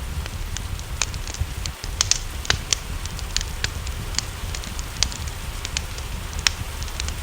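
Wood fire crackling, with frequent sharp, irregular pops over a steady low rumble. A steady hiss of rain runs underneath.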